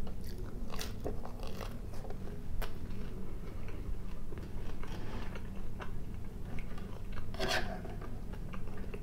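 Close-miked chewing of bread and tinned fish in tomato sauce, with small wet clicks and smacks of the mouth. About seven and a half seconds in, a spoon clinks once against the metal tin.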